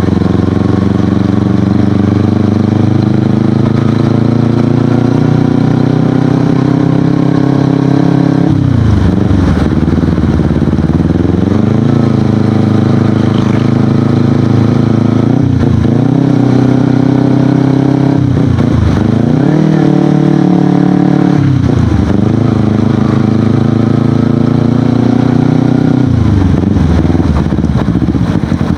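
Kawasaki Ninja 250FI parallel-twin engine running loud through an Akrapovic aftermarket exhaust. The note holds steady for stretches, then drops sharply and climbs back up about five times, as the revs fall and rise again.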